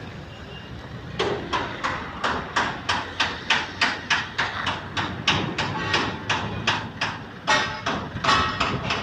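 Rapid hammering, about three blows a second, starting about a second in.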